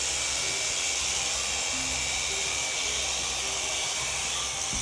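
Electric sheep-shearing handpiece running steadily with a high, even buzz while shearing a sheep's fleece.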